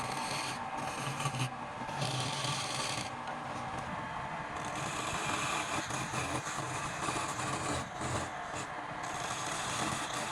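Wood lathe running with a hand tool scraping against the spinning wood. The tool cuts in strokes about once a second at first, then steadily.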